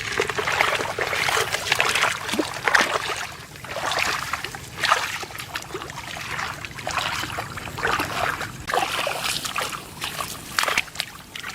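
Shallow water in a flooded rice field splashing and sloshing in uneven bursts, as it is stirred by someone moving through it.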